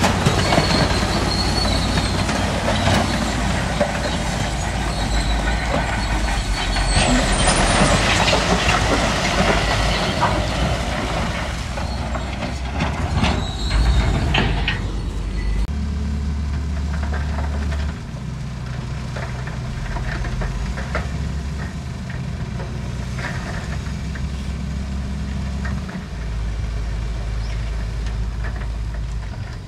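Heavy diesel earthmoving machinery working stone: dense rattling and scraping of rock over the engine noise for about the first half, then mainly a diesel engine running in a steady low drone that shifts level a few times.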